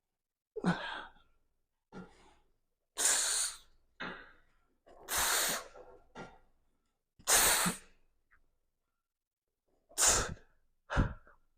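A man's forceful exhales, about nine short hard breaths a second or so apart, with a longer pause before the last two. They come as he strains through a set of a weighted shoulder exercise.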